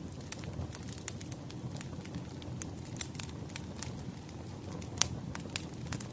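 Wood fire crackling: irregular sharp pops and snaps over a low steady rumble of burning logs, with one louder pop about five seconds in.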